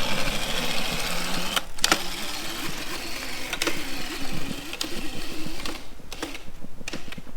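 Razor MX350 electric dirt bike's motor and chain drive whirring as it pulls away, the whine moving up in pitch about two seconds in, with a few light clicks.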